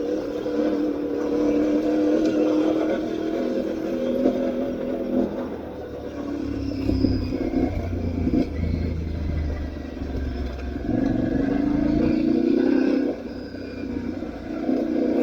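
Aprilia Tuareg 660 parallel-twin motorcycle engine running under changing throttle while riding; its pitch rises, drops and steps between levels, with a deeper rumble near the middle.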